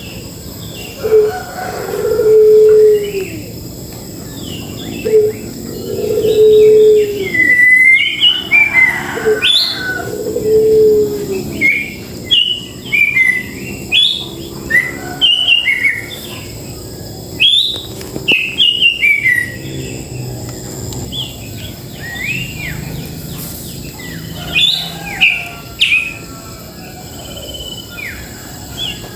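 Several birds calling: a low, drawn-out call, each note about a second long and dropping at the end, repeats about six times in the first ten seconds. Meanwhile a dense run of short, high chirps and whistles starts about eight seconds in, then thins out and returns briefly near the end.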